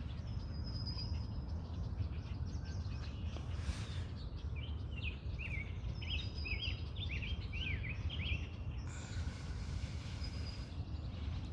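Outdoor ambience: a steady low rumble under a bird singing a quick run of short chirps through the middle, with a few thin high whistles before and after.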